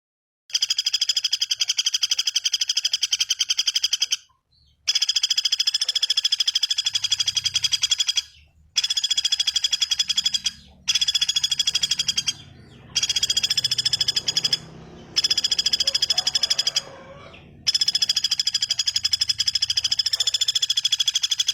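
A bird's rapid, high-pitched rattling trill, repeated in bursts of about two to four seconds with short breaks between them.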